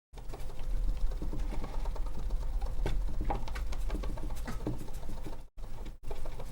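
Rubbing and handling noises close to the microphone, with a low rumble and scattered small clicks; the sound cuts out abruptly for a moment about five and a half seconds in.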